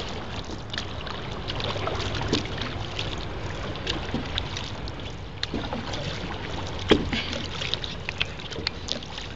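Paddling a canoe: paddles working the water with splashes and scattered light knocks, one sharper knock about seven seconds in.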